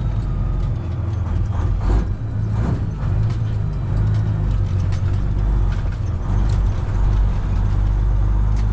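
Semi truck's Detroit Diesel 12.7 engine running steadily, heard from inside the cab as a deep hum, with scattered short clicks and rattles over it.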